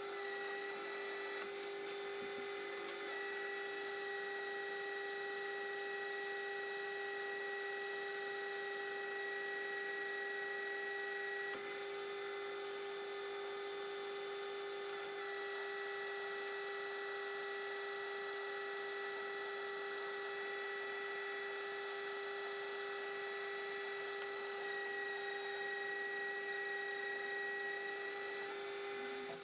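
Metal lathe running with a steady pitched whine, its tone shifting slightly a few times.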